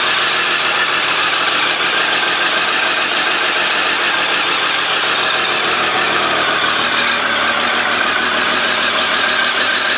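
2006 Triumph Daytona 955i's 955 cc inline three-cylinder engine idling steadily, with no revving.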